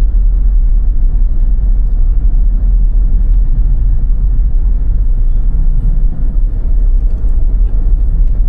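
Car driving on a snow-covered road: a steady low rumble of road and engine noise.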